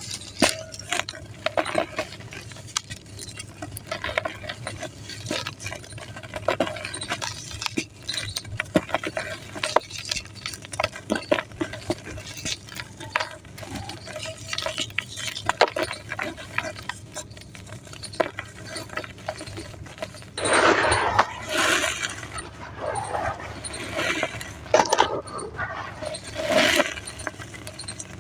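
Gritty sand-cement mud crumbling and crackling as many small clicks and scrapes. From about 20 seconds in come louder bursts of crumbling crunch.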